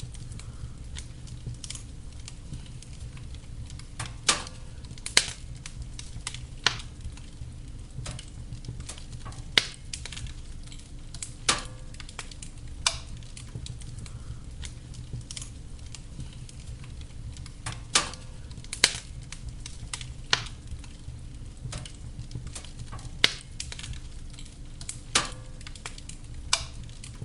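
Wood fire burning in a fireplace: a steady low rumble of flames with irregular crackles and about a dozen sharp pops from the burning logs.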